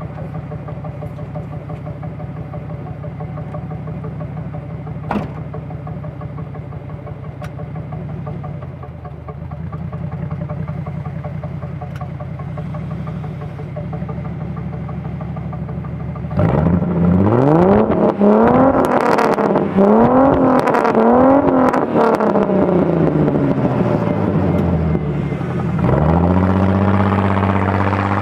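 1998 Ford Mustang 3.8-litre V6 idling, then revved in several quick blips about halfway through, settling back, and held at raised revs near the end. Since a cold air intake was fitted, the owner hears a weird sound from it that is not the air being sucked in.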